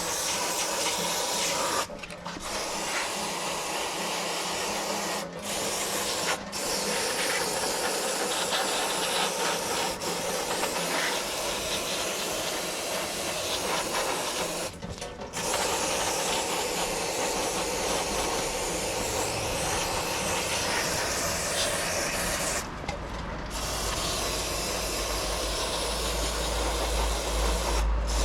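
Aerosol parts cleaner spraying in long hissing blasts, broken by a few brief pauses, with a low rumble joining near the end.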